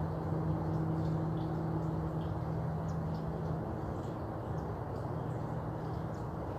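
Outdoor ambience: a steady low rumble with a hum that dies away about three and a half seconds in. Faint, brief bird chirps sound now and then.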